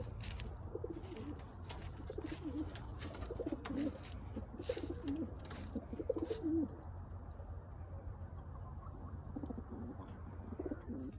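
Domestic pigeons cooing in short, repeated phrases, with scattered sharp clicks and scuffs for the first six seconds or so; the cooing thins out in the second half over a steady low hum.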